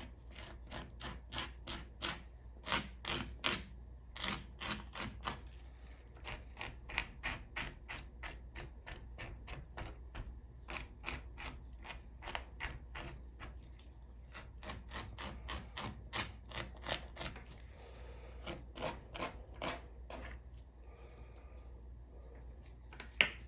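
Plastic pan scraper dragged in quick repeated strokes over the underside of raw chicken skin, scraping off the fat: a fairly quiet run of short scrapes, about three or four a second, thinning out near the end.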